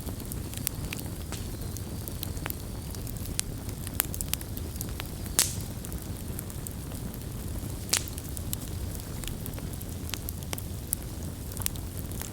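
Wood campfire burning with a steady low rumble and irregular crackles and snaps, the loudest sharp pops about five and eight seconds in.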